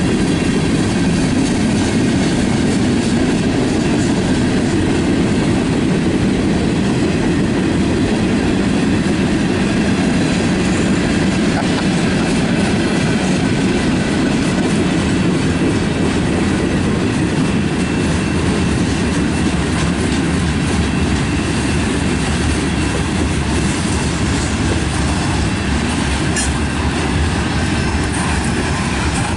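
Freight cars of a manifest train (boxcars, tank cars and covered hoppers) rolling steadily past close by: a continuous rumble of steel wheels on the rails.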